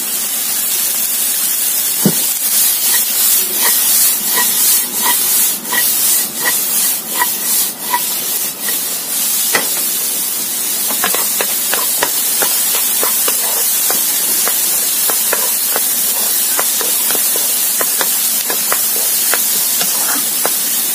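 Diced vegetables and egg sizzling in hot oil in a wok: a steady frying hiss scattered with light ticks and pops. In the first half the ticks come at an even pace with a small ring to them; in the second half they are quicker and irregular.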